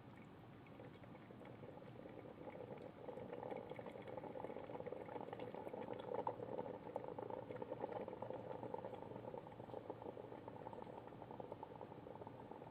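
Miniso single-cup drip coffee maker brewing: water bubbling as it heats and passes through the machine, building up over the first few seconds and then going on steadily.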